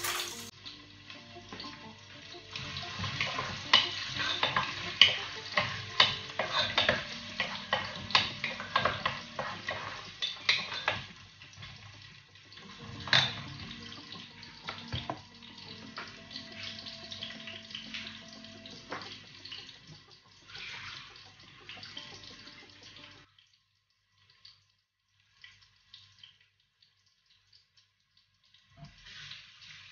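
Food sizzling in a pot while a wooden spoon stirs and scrapes it, with many sharp knocks against the pot. After about twenty seconds the stirring stops and a kitchen tap runs at the sink in short spells.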